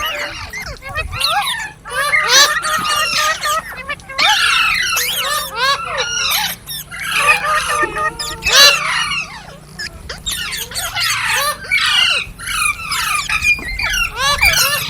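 Green parrots squawking and screeching, many short rising and falling calls overlapping one another, with brief lulls.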